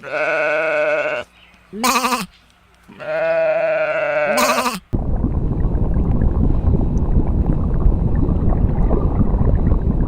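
Three wavering bleats from a sheep or goat: a long one, a short one, then another long one. About halfway through they give way to a loud, steady, noisy rush that carries on to the end.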